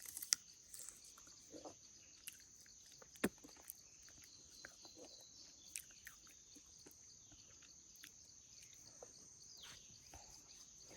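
Insects droning in a steady high-pitched band, with scattered short clicks and rustles over it, the sharpest about three seconds in.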